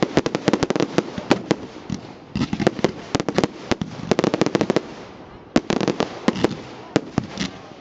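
Fireworks display going off: rapid strings of sharp bangs in three dense clusters, separated by brief lulls about two and five seconds in.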